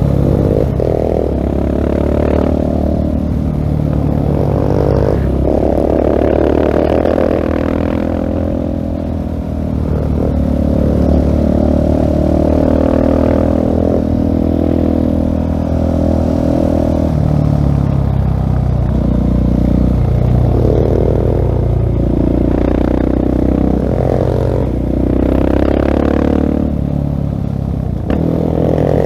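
2016 Husqvarna 701 Supermoto's single-cylinder engine through a LeoVince full-system exhaust, under way: the pitch rises and falls again and again as the rider opens and closes the throttle.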